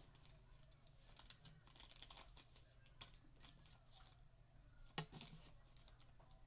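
Faint rustling and crinkling of paper being handled, in scattered short crackles over a steady low hum.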